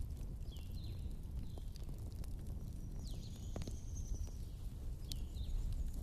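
Wood fire crackling with scattered sharp pops over a steady low storm-wind rumble, with a few short high-pitched squeaks mixed in.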